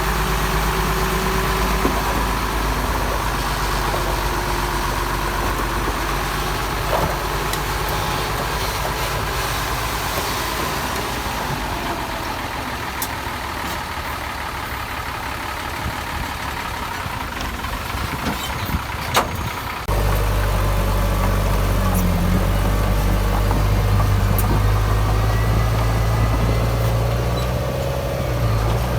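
Diesel engines of heavy earthmoving machinery running steadily. There are a few sharp knocks about two-thirds of the way through, and just after them the engine sound switches abruptly to a louder, deeper hum.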